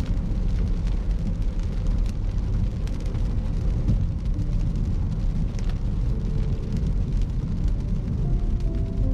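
Steady road and engine rumble inside a moving car's cabin, with faint music playing underneath.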